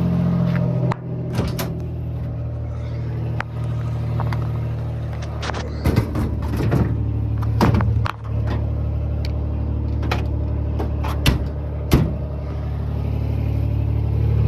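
Beater Ford Ranger pickup's engine running steadily with a low hum through a half-removed, leaking exhaust. Irregular sharp knocks and rattles from the truck's body and cab come every second or so, the loudest about twelve seconds in.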